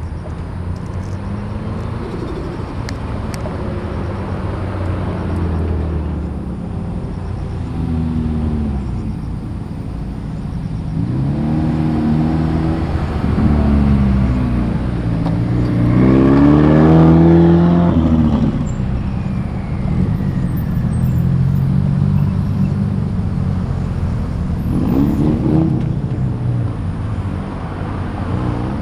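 Car engines revving and pulling away one after another, several times rising in pitch through the gears. The loudest run-up comes a little past halfway.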